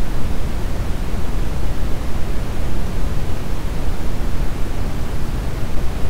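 Steady brown noise: a constant deep rushing hiss, strongest in the bass and falling off toward the treble, with no change.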